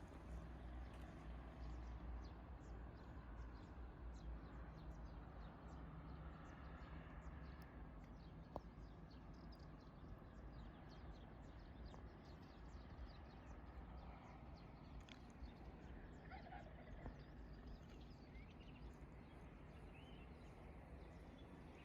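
Faint outdoor ambience: a steady low rumble with scattered light ticks and a few short bird chirps in the second half.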